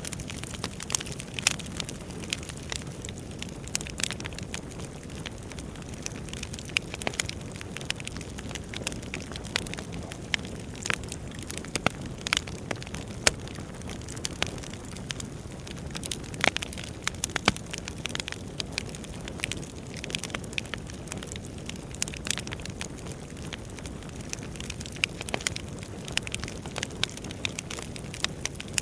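Burning firewood crackling: a steady low rush from the fire with frequent sharp, irregular pops and snaps.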